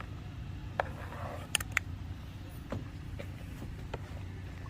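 A few sharp clicks and light taps, as of something being handled, over a steady low hum.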